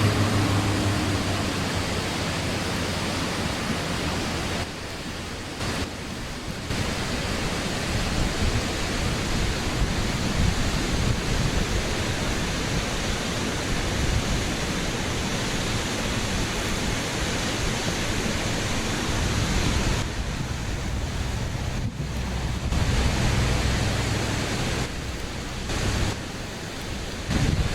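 Waterfall's steady rush of falling water, its level dropping and jumping abruptly a few times as the recording changes.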